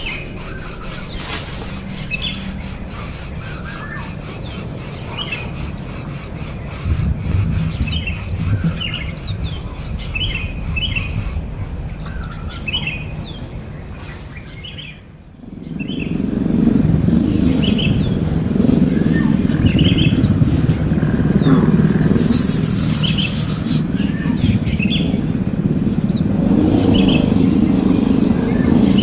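Small birds giving short, repeated chirps. About halfway through, a loud low rumble comes in under the chirps.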